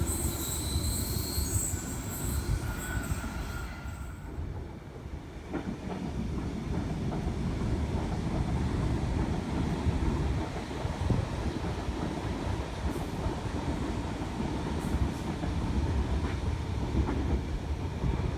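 Tangara electric trains running through the station: a high wheel squeal for the first few seconds as one train clears, then a steady low rumble of wheels on track as another set passes.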